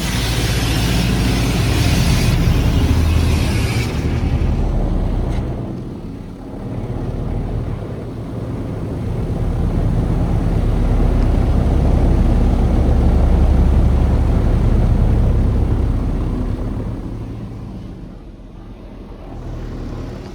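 Touchless automatic car wash at work on a car: a hiss of spray for the first four seconds over a deep rumble, then the rumble swells and fades away near the end.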